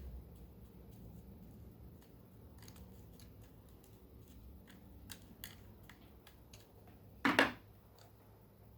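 Quiet scattered clicks and taps of small plastic parts being worked on by hand. About seven seconds in comes one louder, short sound lasting under half a second, of the kind a scissor snip makes.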